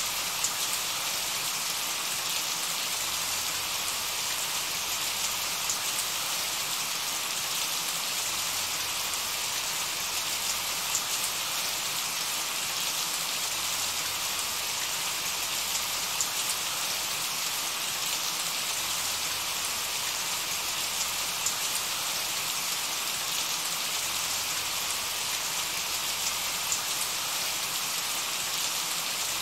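Steady rain: an even hiss with scattered sharper raindrop ticks.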